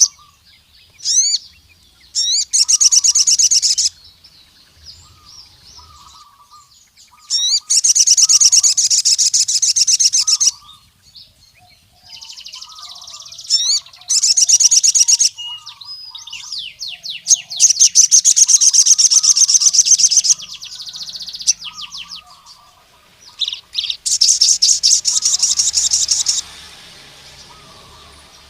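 Male sogon (a nectar-feeding sunbird) singing in loud bursts of rapid, high chirping trills, each a second and a half to three seconds long, with quick rising whistled sweeps between the bursts. This is the song a male uses to call out rival males. Fainter, lower chirps continue under it.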